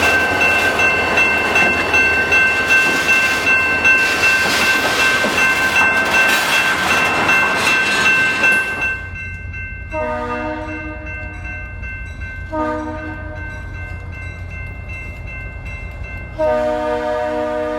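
A train rolls by close up: loud rail noise with a steady high-pitched squeal over it. About nine seconds in this cuts off abruptly to a quieter low hum, over which a locomotive's multi-chime air horn sounds three times, the last starting near the end.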